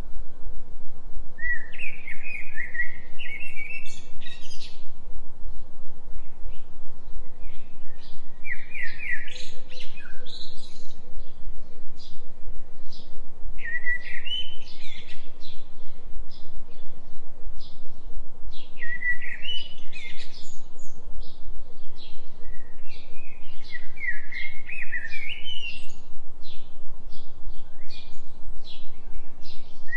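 A songbird singing short chirping phrases every four to five seconds, over a steady low droning tone from a binaural-beat track.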